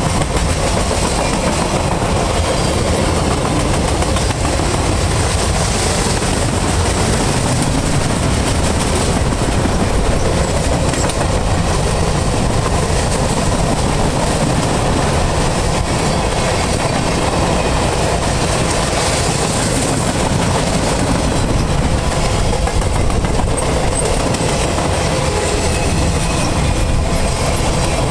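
A freight train's loaded flatcars rolling past close by: steel wheels running on the rails, a steady, continuous noise with no break.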